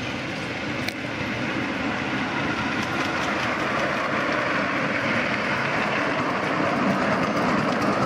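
Miniature railway train running along the track, getting louder as it approaches, with a sharp click about a second in.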